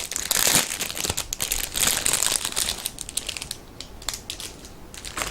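Packaging crinkling and rustling as it is opened by hand. The crackling is dense for the first three seconds, thins out to a faint rustle, then picks up again near the end.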